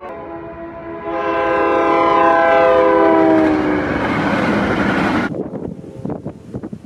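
Amtrak Northeast Regional train's horn sounding a chord as it passes, the chord dropping in pitch as it goes by, with the loud rush of the train passing that cuts off suddenly about five seconds in, followed by faint scattered clicks.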